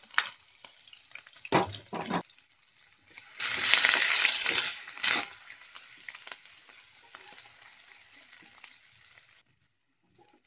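Green chillies and crushed ginger sizzling and frying in hot oil in a kadhai. There are a few louder crackles about two seconds in, the sizzle is loudest around four seconds in, then it fades and cuts off just before the end.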